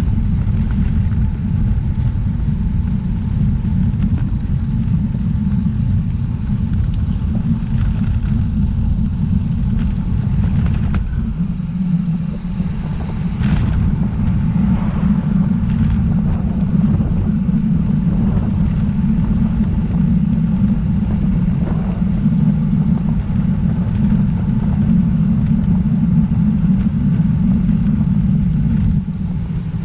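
Wind buffeting the microphone of a road bike moving at speed: a loud, steady low rumble.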